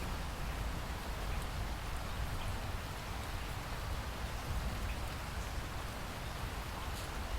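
Steady rain falling, an even hiss with a low rumble beneath and scattered small drop ticks.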